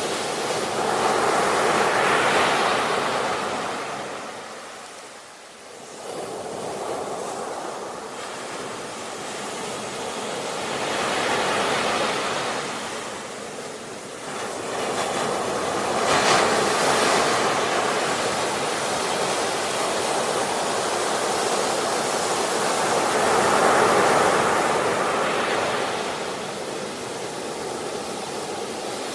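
Sea waves breaking and washing on a shore, a steady hiss of surf that swells and ebbs in slow surges, one roughly every six to eight seconds.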